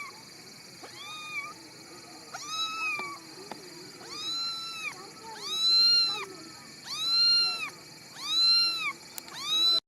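A kitten meowing over and over, about seven high-pitched, arching cries roughly a second and a half apart, growing louder after the first few.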